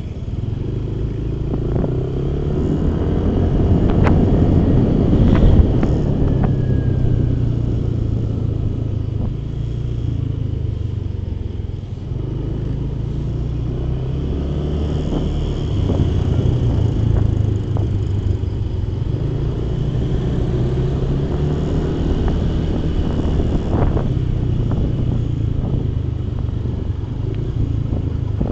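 Motorcycle engine running while riding, its pitch rising and falling as the speed changes, with a few brief knocks along the way.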